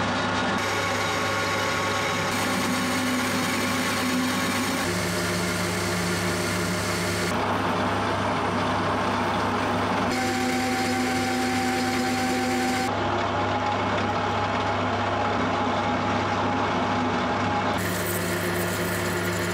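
Machine-shop power tools running: a steady motor hum with whining tones, its pitch and character changing abruptly every two to three seconds.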